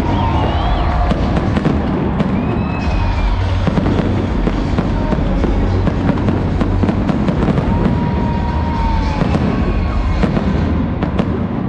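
Aerial fireworks going off in a rapid, continuous barrage of overlapping bangs and crackles over a deep rumble, with music playing along.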